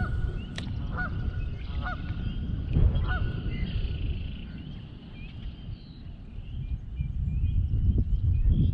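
Geese honking, a few short calls in the first three seconds or so, over strong wind rumbling on the microphone.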